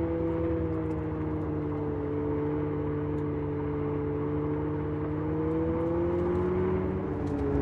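The Abarth 500e's sound generator playing its synthetic petrol-engine note through the car's speakers at a steady cruise, over tyre and road noise. The pitch sags slowly and then shifts near the end.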